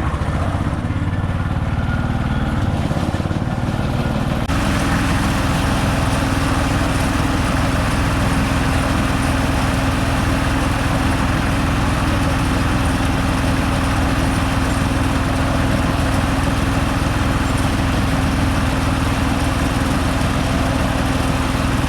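Konma MT-S411D harvester's engine and threshing mechanism running steadily. About four and a half seconds in, the sound abruptly becomes fuller and a steady hum joins it.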